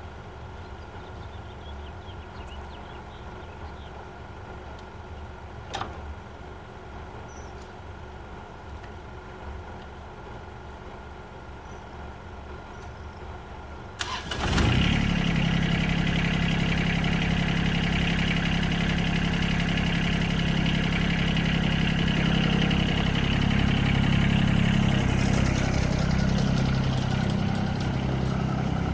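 A steady low hum with a single click, then about halfway through the John Deere 2305's three-cylinder diesel engine cranks briefly, catches at once and settles into a steady, much louder run.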